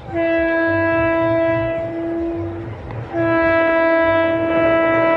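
Indian Railways locomotive horn sounding two long blasts, the first about two and a half seconds long, the second starting about three seconds in and still sounding at the end, over the low rumble of the running train.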